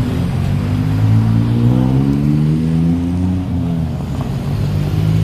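A motor engine running close by, its pitch rising as it revs from about a second in and dropping back near the end.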